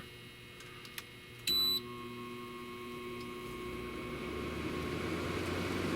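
Air conditioner beeping once as it is switched on, then its fan starting up and running, growing gradually louder, over a steady electrical hum.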